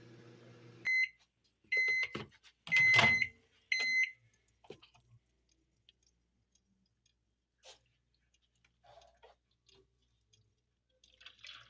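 Microwave oven running with a steady hum that stops about a second in, followed by four beeps about a second apart, typical of the end of a heating cycle. A loud knock comes with the third beep, then only faint small clicks.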